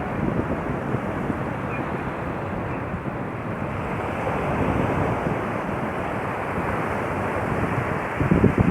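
Sea waves washing onto a beach, with wind blowing over the microphone; heavier gusts of wind rumble against the microphone near the end.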